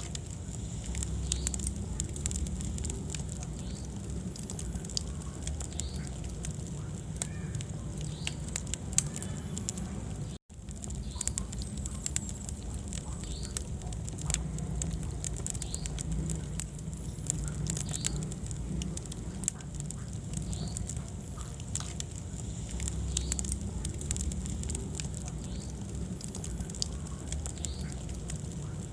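Wood fire burning in a fireplace: irregular sharp crackles and pops over a low, steady roar of the flames. The sound cuts out for an instant about ten seconds in.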